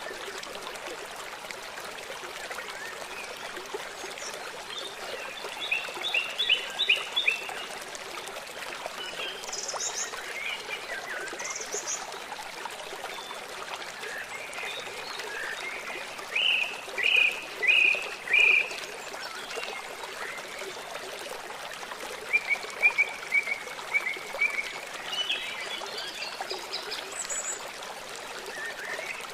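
Songbirds calling over the steady rush of running stream water. The birds sing in short runs of repeated chirps: a group about six seconds in, four loud chirps about a second apart around the middle, and a quicker run of notes later on.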